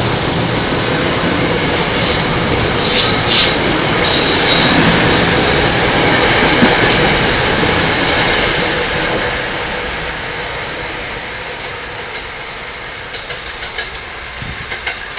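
Metro-North electric commuter train pulling out of the station past the platform, its cars rushing by with brief high-pitched screeches about three and four seconds in. It then fades steadily as the train moves away, with a few sharp wheel clicks over the rail joints near the end.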